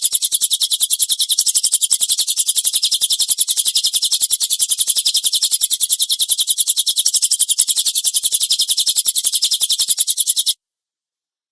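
Bird-training recording of a rough, rapid 'tembakan' burst: a fast, even series of harsh high notes delivered at well over ten notes a second, cutting off abruptly near the end.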